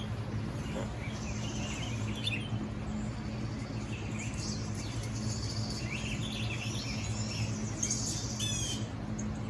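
Wild birds chirping and trilling, played from a nature video through a phone's speaker, with a steady low hum underneath.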